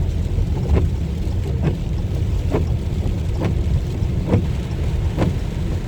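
Car windshield wipers sweeping in the rain, a short swish a little under once a second, over the steady low rumble of the car driving, heard from inside the cabin.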